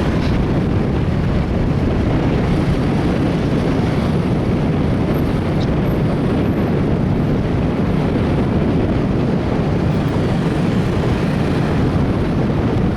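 A moving motorbike, heard from on board: steady wind noise buffeting the microphone over the bike's running engine and road noise.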